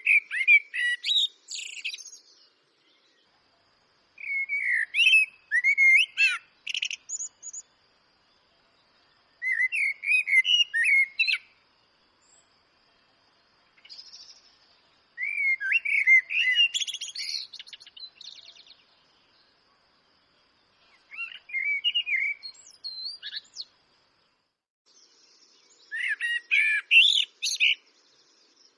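Eurasian blackbird singing: six separate warbling, fluting phrases of about two seconds each, every one ending in a high squeaky twitter, with pauses of a few seconds between them.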